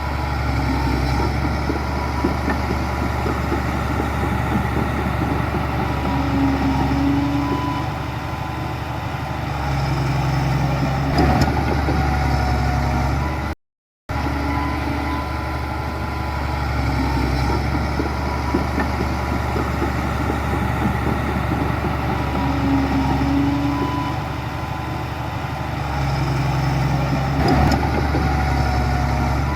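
Heavy diesel engine of earthmoving machinery running steadily, rising and falling a little in load. The sound cuts out completely for a moment about halfway through.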